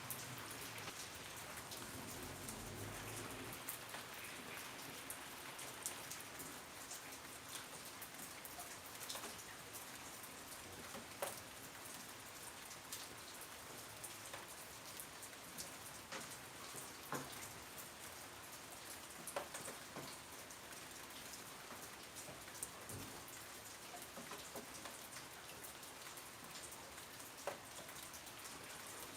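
Steady rain, with individual drops ticking sharply on a surface here and there. A low rumble underlies the first few seconds.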